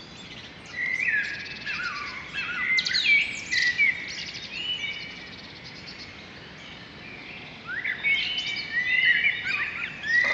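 Songbirds chirping and singing in quick sliding and trilled notes, in two bouts: one starting about a second in and fading by about four seconds, another starting near the end.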